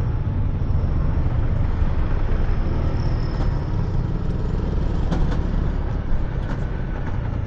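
Riding noise picked up by a lavalier mic under a balaclava in a half-face helmet: a steady low rumble of wind and the motorcycle's engine, with traffic noise around it.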